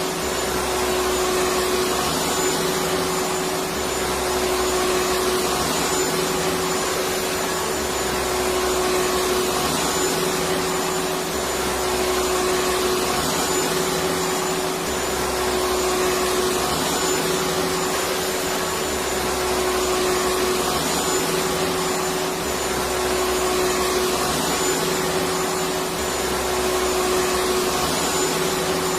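Vacuum cleaner running continuously: a dense, steady rush of air with a constant motor hum, swelling and easing slightly every three to four seconds.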